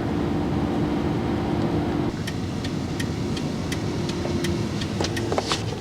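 Car interior road noise: a steady low engine and tyre rumble with a hum that stops about two seconds in, then a run of light, evenly spaced ticks, about two or three a second.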